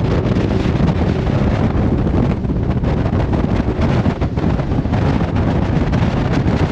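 Heavy wind buffeting the microphone on a fast-moving boat, with steady engine and water noise underneath.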